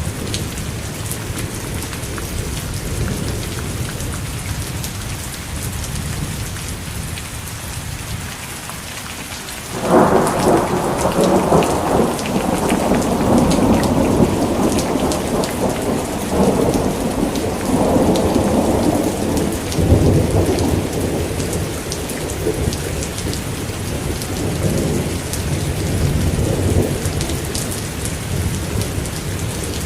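Steady rain falling, with a thunderclap about ten seconds in that breaks suddenly and rumbles on for several seconds before fading to a low roll.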